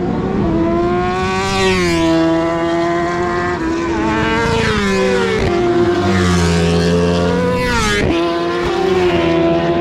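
Racing superbikes of the 1000 cc class passing at high revs, several in succession, each engine note rising and then dropping in pitch as it goes by, with gear changes in between.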